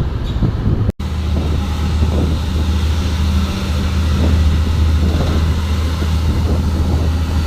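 Heavy diesel truck engine running at steady revs, a low even drone over road noise. The sound drops out briefly about a second in at an edit, then the drone carries on unchanged.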